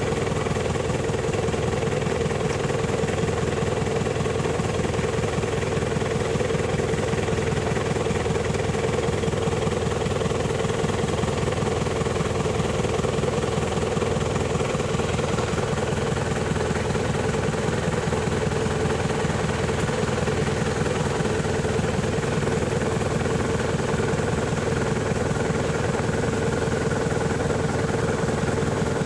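Steady motor-vehicle engine and road noise at an even cruising speed: one constant drone with no change in pitch or loudness.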